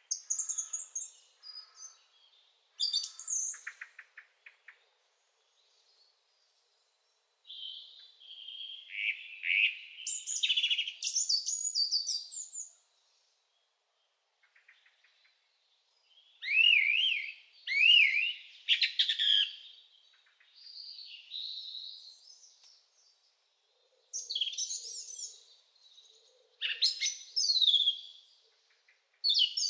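Songbirds singing: short phrases of quick high chirps, whistled notes and trills, coming and going with pauses of near silence between them.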